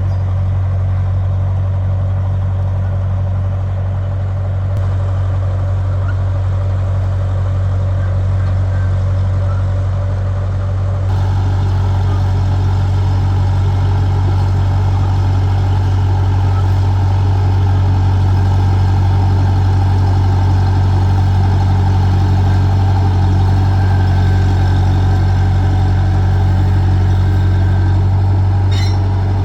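Bulldozer's diesel engine running steadily at work, a step louder about eleven seconds in.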